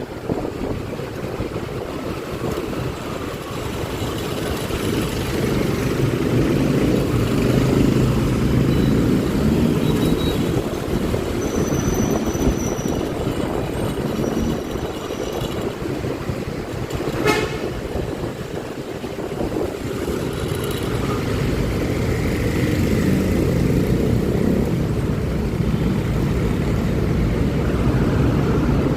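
Steady rumble of a Honda Click 125i scooter ridden through city traffic, mixed with wind on the helmet microphone, with vehicle horns tooting and a single sharp click about two-thirds of the way through.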